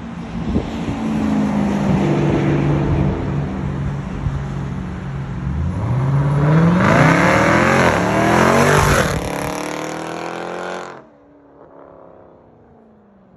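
Jeep Grand Cherokee Trackhawk's supercharged 6.2-litre V8, straight through with the mufflers deleted, held at steady revs and then launched hard. The exhaust note climbs in pitch as it accelerates and is loudest about seven to nine seconds in. It then drops away sharply to a faint, falling engine note near the end.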